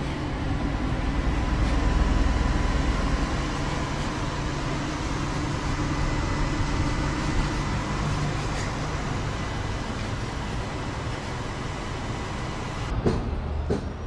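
A vehicle engine running steadily with a low hum, with a few sharp knocks near the end.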